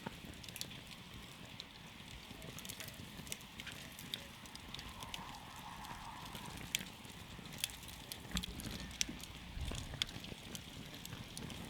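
Wood campfire burning, with sharp, irregular crackles and pops scattered throughout over a steady hiss.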